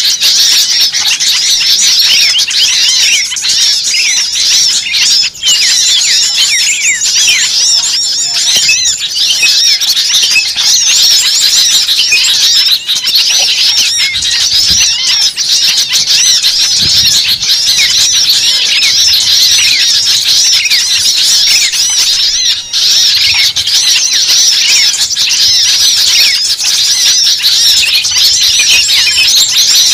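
Bird-lure recording of many small birds chattering and chirping at once, a dense, loud, unbroken tangle of rapid high twitters and squeaks. It imitates an agitated, noisy flock of small birds.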